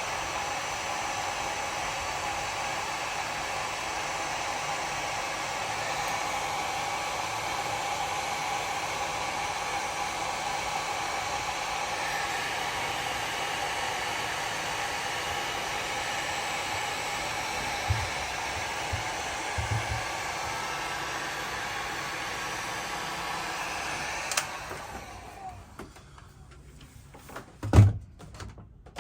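Electric heat gun running steadily, a constant blowing hiss, used to heat wire connectors. It is switched off about 24 seconds in and runs down, with a few soft knocks before that and one sharp knock near the end.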